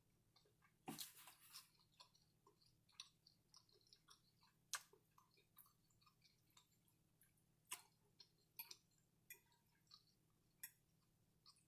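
Faint chewing: soft, irregular mouth clicks and smacks, with a short louder cluster about a second in.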